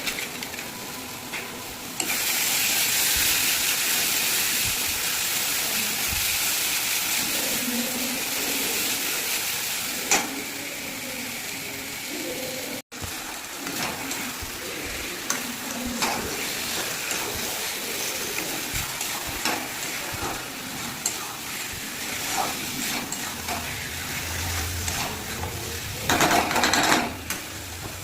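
Chicken frying and sizzling in hot oil in a pan, stirred with a spoon scraping against the metal. The sizzle jumps up sharply about two seconds in, and there is a short, louder clatter near the end.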